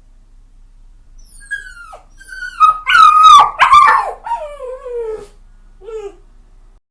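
Puppy crying: a string of high whines and yips that begins about a second and a half in, grows loudest in the middle and slides down in pitch, with one short whimper near the end.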